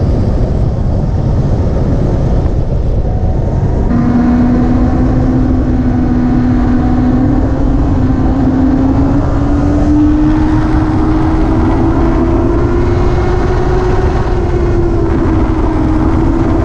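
Motorcycle ridden at road speed with heavy wind rushing over the microphone. From about four seconds in, the engine note holds steady and then slowly climbs in pitch as the bike gathers speed.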